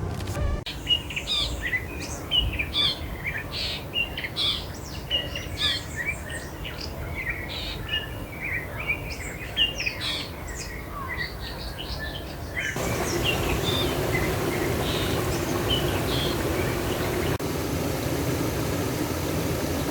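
Chorus of many wild birds chirping and calling, with dense overlapping short high calls. About two-thirds of the way through the sound changes abruptly to a louder steady rushing noise with a low hum, with only a few faint bird calls left.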